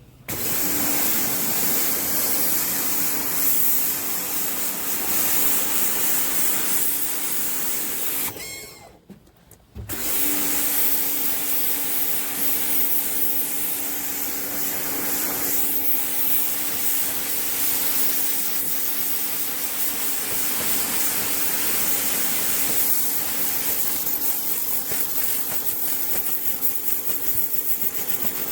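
Pressure washer spraying, a steady rushing hiss over the hum of its pump. It stops for about a second near the middle, then starts up again.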